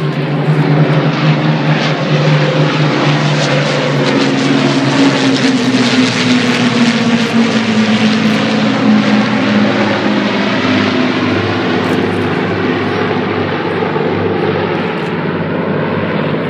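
Propeller-driven aeroplane flying past at an air display: a loud, steady engine and propeller drone whose note drops in pitch as it passes, loudest through the first half and easing off toward the end.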